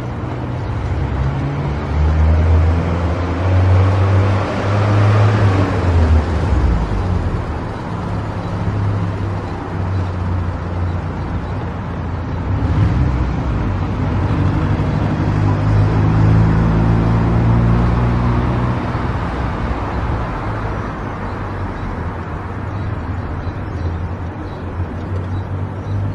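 Car engine and road noise while driving, the engine note shifting up and down in pitch over a steady rush of tyres on the road. A louder swell of road noise a few seconds in, like a vehicle passing.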